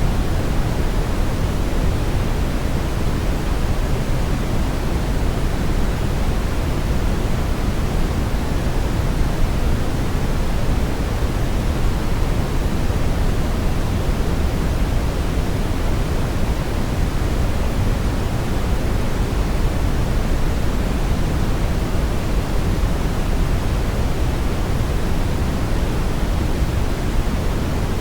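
Steady brown noise: an even, deep rushing hiss weighted toward the low end, with no changes.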